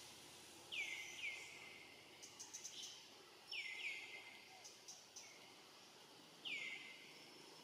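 Bird calls: short chirps, each falling quickly in pitch, a pair about a second in, another pair about three and a half seconds in and a single one near the end, with a quick run of high ticks between them, over faint outdoor background noise.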